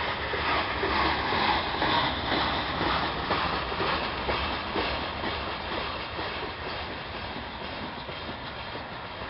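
Gravel freight train cars rolling slowly past, wheels clacking and clicking over rail joints over a steady rumble, easing off in the second half.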